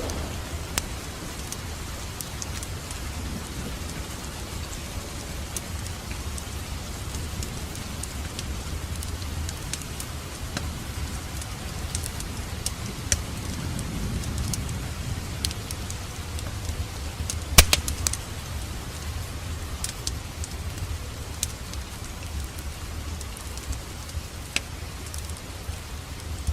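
Wood fire in a fireplace crackling, with scattered small pops over a low steady rumble of the flames, and one loud sharp crack about two-thirds of the way through.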